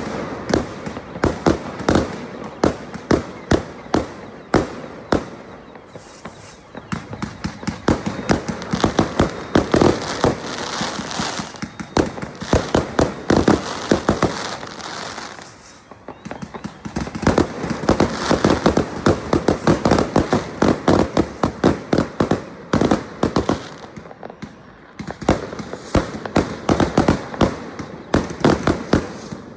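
Fireworks going off in a near-continuous barrage of rapid bangs and crackles, easing briefly about halfway through before picking up again.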